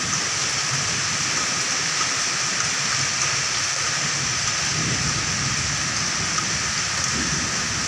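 Heavy rain falling steadily onto floodwater and roofing, with rainwater pouring off the roof edge: a dense, even hiss that does not let up.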